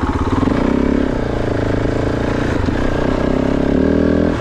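Kove 450 Rally's single-cylinder engine pulling under throttle, revving up about half a second in, wavering, then revving up again near the end before dropping off sharply as the throttle closes.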